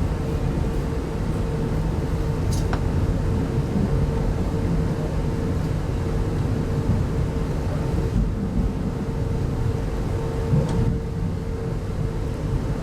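Steady low rumble inside an RZ25T passenger coach, with a constant hum running under it. Two brief faint clicks come about two and a half seconds in and near the end.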